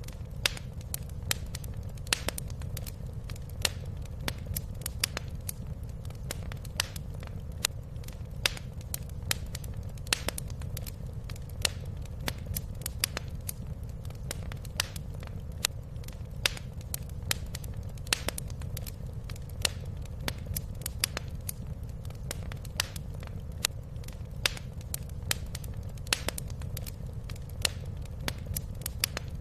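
Wood fire crackling in a fireplace: frequent irregular sharp pops and snaps over a steady low rumble of the burning.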